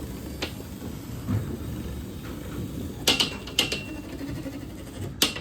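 Linear belt-drive garage door opener running quietly, a low steady hum as it moves the door. A few sharp metallic clicks and rattles come about three seconds in and again near the end, around where the run stops.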